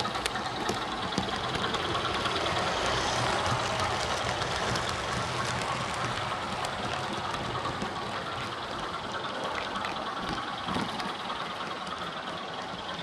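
Sound-fitted OO gauge Class 24 model locomotive running, its DCC sound decoder playing a diesel engine sound through the model's small speaker. The engine sound swells a little a few seconds in and then eases back, with light clicks over it.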